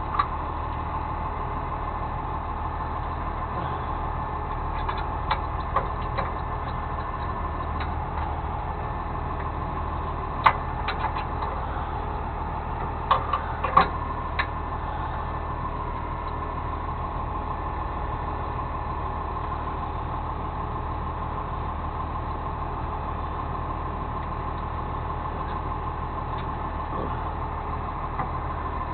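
Truck engine idling steadily with a steady whine over its hum, and a few sharp clicks or knocks about ten seconds in and again around thirteen to fourteen seconds in.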